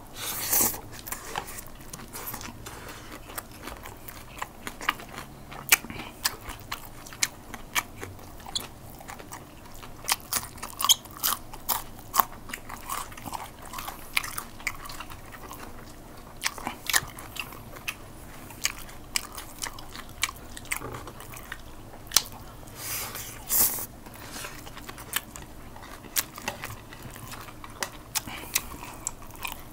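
Close-miked eating sounds of two people chewing and biting into chicken adobo with rice and fresh greens, eaten by hand. Irregular crisp crunches and wet mouth clicks come every fraction of a second, with a few louder bites now and then.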